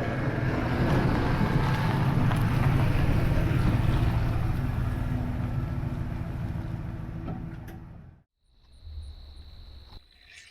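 Van driving on the road: steady engine and road rumble with some wind noise, fading and cutting off about eight seconds in. A steady high-pitched insect trill, like a cricket, follows near the end.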